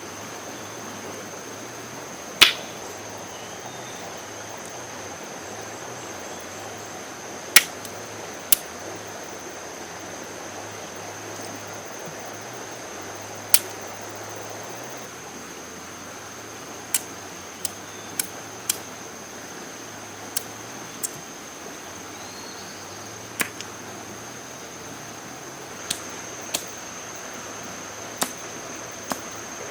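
Sharp single knocks or taps, about fifteen at irregular intervals, the loudest two a few seconds in. Under them is a steady background hiss with a constant high, thin whine.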